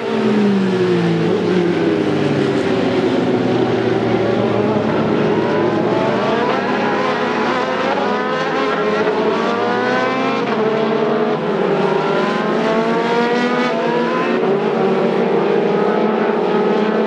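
Race cars' engines at high revs, their pitch climbing and then dropping with each upshift as they accelerate, with more than one engine heard at once.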